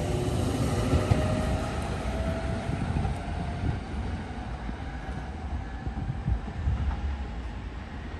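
A train running on the tracks, with a faint whine in the first few seconds; its rumble slowly fades.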